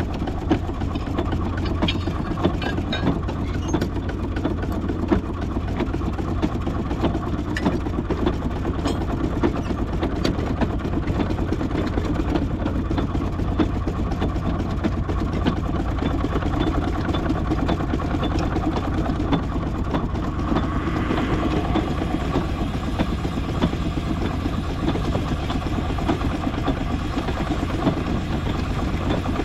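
A large engine running steadily at low speed with a deep rumble, scattered clanks and ticks over the first ten seconds, and a rise in hiss about two-thirds of the way through.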